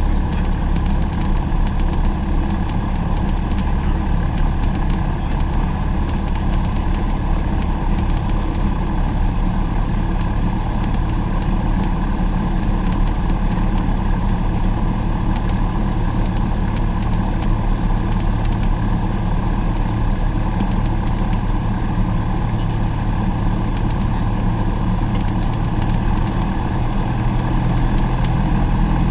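Steady, low drone of a propeller aircraft's engine and propeller, heard from inside the cabin in flight.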